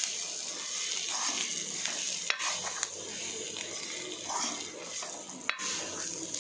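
Beef and onions sizzling in a black pan while a spoon stirs and scrapes through them, with two sharp knocks of the spoon against the pan, about two seconds in and again about five and a half seconds in.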